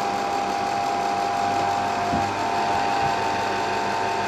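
Bell & Howell 8mm projector's motor and fan running steadily in neutral, a level mechanical whir with a steady whine on top.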